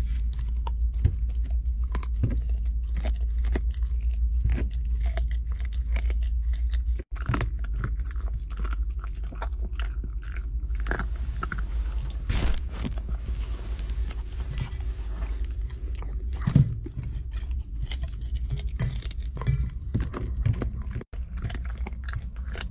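A dog chewing and crunching chicken neck and rump, bones cracking in irregular bites, over a steady low hum.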